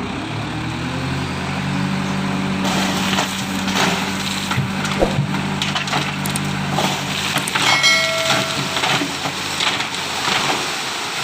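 Dump truck engine running hard under load while a full bed of sand and gravel tips out, the stones sliding and rattling in a dense crackle. A brief high squeal comes about eight seconds in.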